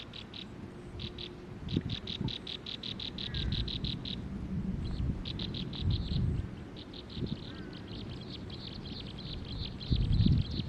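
Baby birds begging with runs of rapid, high, evenly repeated chirps, about eight to ten a second, broken by short pauses. Low thumps come near the end.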